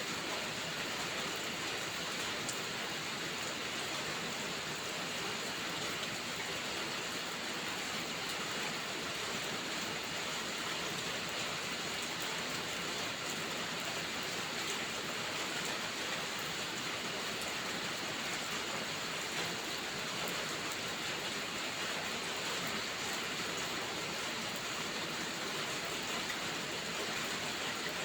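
Steady rainfall: an even hiss of rain with no change in strength, a few faint drop ticks showing through.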